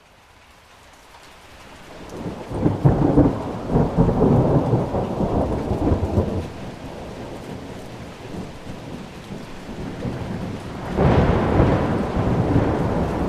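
Rolling thunder over rain. A first peal builds from about a second in and rumbles loudest for several seconds, then eases. A second peal breaks in suddenly near the end.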